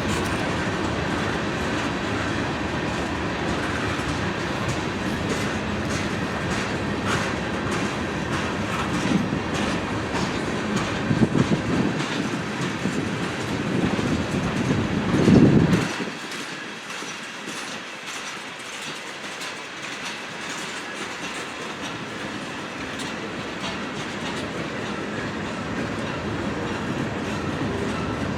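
Freight train rolling past, its car wheels clacking over rail joints with a steady rumble. The rumble swells about eleven to fifteen seconds in, then drops away suddenly about sixteen seconds in, leaving a quieter rolling sound that slowly builds again.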